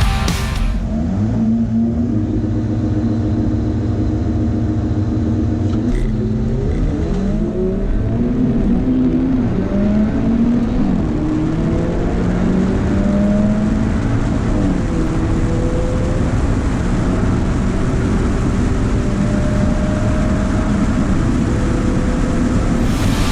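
Car engine held at steady revs for several seconds, then launching and accelerating hard, the pitch climbing and falling back at each gear change: a full-throttle drag-race run.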